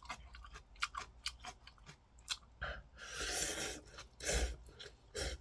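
A person chewing a mouthful of ramen and kimchi close to the microphone, with wet mouth clicks and smacks, and a louder, longer noisy stretch about three seconds in.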